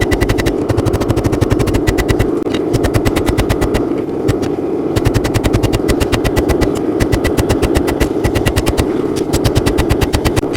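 Rapid hammering on hot steel, about eight blows a second in runs with short pauses, forging out a 1095 steel drawknife blank, over a steady forge roar.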